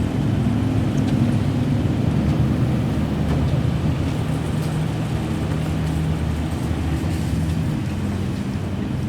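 A motor vehicle's engine running steadily at idle, a low hum that holds one pitch throughout.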